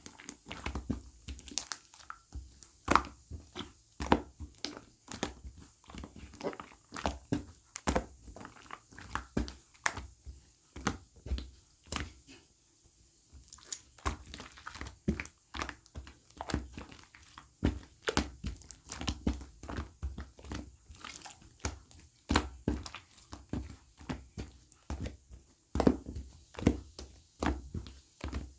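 Close, irregular crunching and clicking, several sharp crunches a second with a few low thuds, easing off briefly about halfway through.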